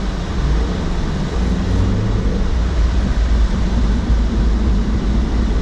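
Cabin noise of a 2016 Mazda CX-9 driving on a snow-covered road: a steady low rumble of engine and tyres.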